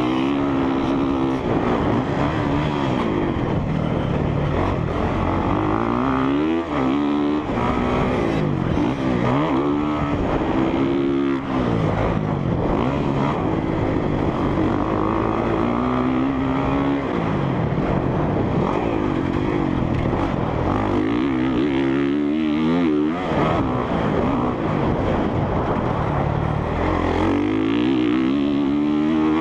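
A 2017 Honda CRF450R's single-cylinder four-stroke engine being ridden hard round a motocross track, revving up and dropping off again and again through the gears, over jumps and into corners, with wind rushing past.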